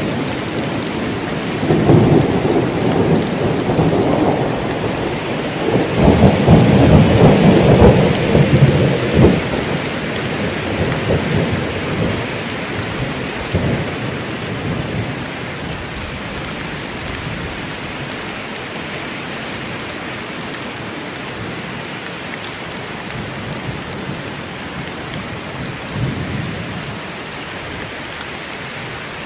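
Steady rain falling in a forest, with rolling thunder: a rumble about two seconds in and a louder one from about six seconds in that fades away over the next several seconds.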